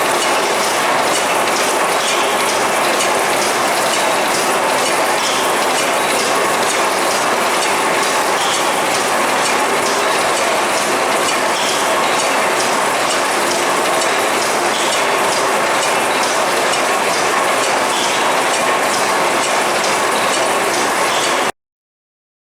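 Stationary steam mill engine running, its valve gear and moving parts clattering with a quick, regular ticking over a steady mechanical churn. Cuts off suddenly near the end.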